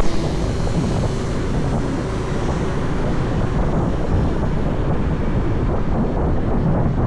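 Motorbike riding: a steady rush of wind buffeting the microphone over the running engine and road noise.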